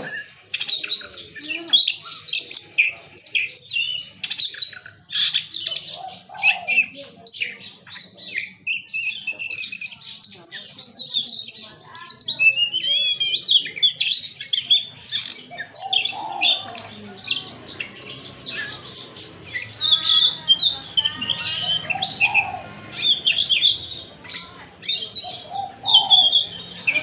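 Oriental magpie-robin (kacer) singing a rapid, unbroken stream of short chirps and whistles, running through mimicked calls of other birds (its 'isian').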